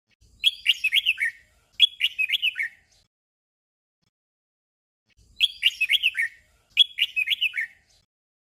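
Red-whiskered bulbul singing a short, whistled warbling phrase twice in quick succession (the doubled song), then the same doubled phrase again about five seconds in.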